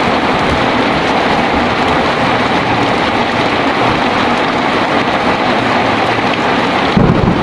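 Heavy rain pouring steadily in a dense, even hiss. Near the end a deep rumble of thunder breaks in.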